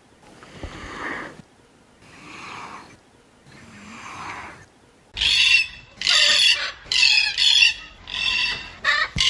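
An animal calling: three soft, breathy sounds about a second each, then from about halfway a run of about six loud, high-pitched squealing calls.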